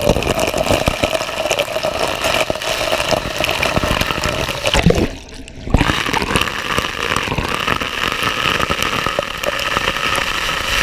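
Waterfall: a steady rush of falling water, with a brief dip in level about halfway through.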